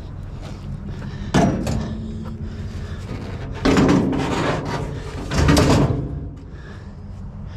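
Three bangs and clatters, about a second and a half in, near four seconds and near five and a half seconds, over a steady low hum.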